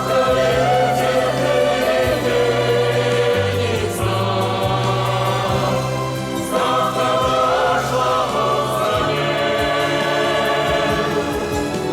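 Music: a choir singing sustained, wordless notes over a slow, steady bass line.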